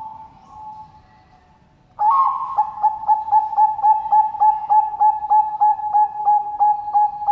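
Zebra dove (Bangkok perkutut) cooing: soft faint coos at first, then about two seconds in a loud, fast run of short staccato coos at a steady pitch, about four a second.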